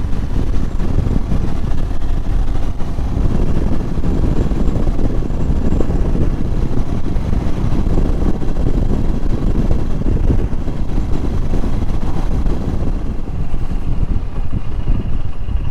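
Royal Enfield Himalayan's single-cylinder engine running under way, heavily mixed with wind buffeting on the microphone. Near the end the wind noise drops and the engine's note comes through more clearly as the bike slows.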